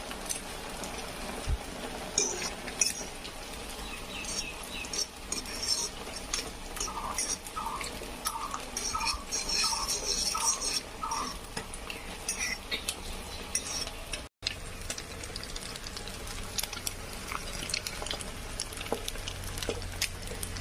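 Metal utensils clinking and scraping against dishes and a pan, with stirring: many short, irregular clinks.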